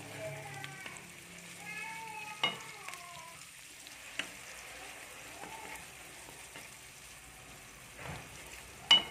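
Sliced shallots, garlic and red chilies frying in oil in a wok with a faint sizzle, stirred with a wooden spatula that knocks sharply against the pan a few times, the loudest knock near the end.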